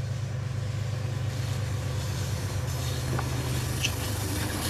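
Diesel-hauled express passenger train passing at speed: a steady low rumble from the rolling train, with a few faint metallic clinks about three and four seconds in.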